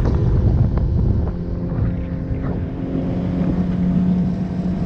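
Outboard motor, a Mercury 60 hp on a Mako Pro Skiff 17, running steadily under way, with wind buffeting the microphone and water rushing past the hull. A few sharp knocks sound in the first second and a half.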